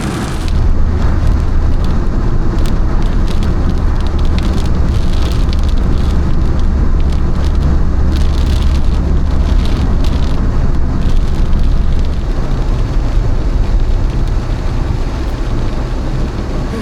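Car driving in rain: a steady low road rumble with rain pattering on the bodywork. The rumble drops off about twelve seconds in.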